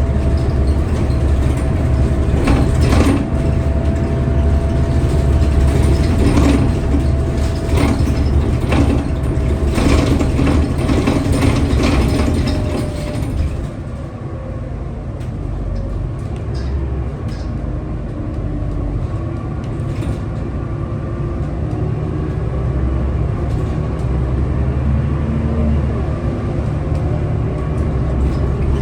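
Scania L94UB bus running, a steady low engine rumble with many clicks and rattles in the first half. About halfway through it gets a little quieter and the rattling mostly stops.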